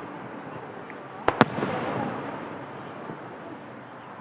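Aerial fireworks bursting: two sharp bangs in quick succession about a second and a half in, followed by a fading tail of noise.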